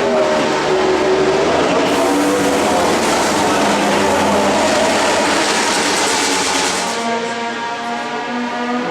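Ducati MotoGP bike engine running, its pitch rising and falling, then settling to a steadier, lower note about seven seconds in.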